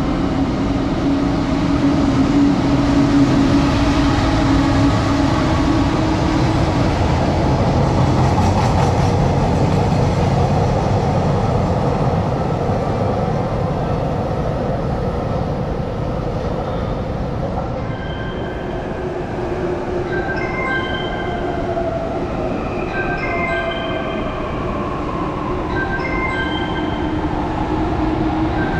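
Freight train hauled by a JR Freight EF210 electric locomotive running through a covered station, a steady rumble of wheels on rail that eases off after about halfway. In the later part, short electronic chime tones repeat every couple of seconds over the train noise.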